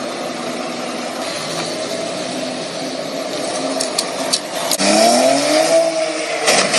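Car engine under steady road and wind noise, with a few sharp clicks about four seconds in, then revs rising and falling near the end.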